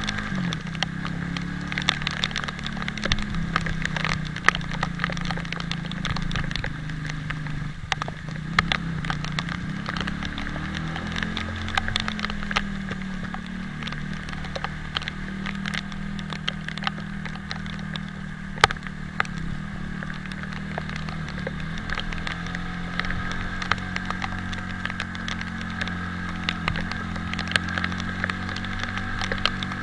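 Italika 250Z motorcycle engine running under way, its pitch drifting up and down with the throttle, with a dense patter of sharp ticks, like raindrops striking the microphone.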